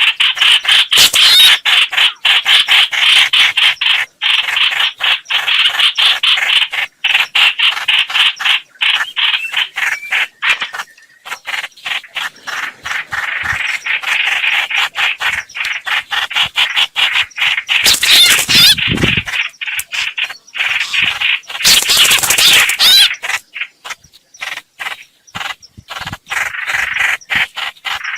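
Lure recording of a hoạch hoạch bird calling: a fast, steady run of short repeated chattering notes that keeps going with only brief gaps. Short rushing noises cut in twice, about two-thirds of the way through.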